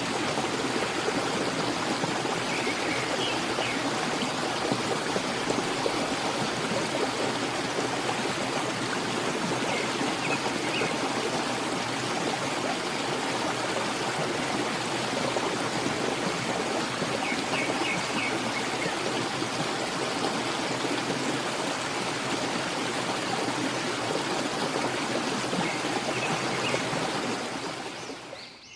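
Steady rush of flowing water, fading out near the end, with a few faint short chirps every several seconds.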